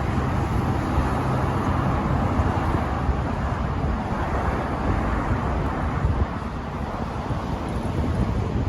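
Steady outdoor noise: road traffic running, with wind rumbling on the microphone.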